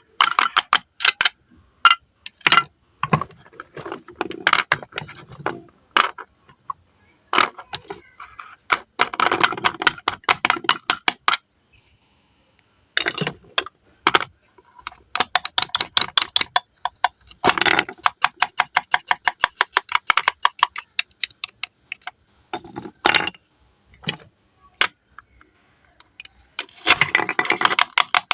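Velcro (hook-and-loop) joints on plastic toy fruit being sliced apart: a series of rasping rips made of rapid crackles, each a second or two long, with single sharp clicks and taps between them.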